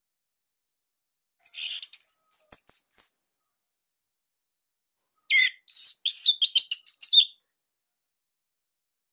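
Orange-headed thrush singing two short, rapid, high-pitched phrases of varied chirped and whistled notes, with a pause of about two seconds between them.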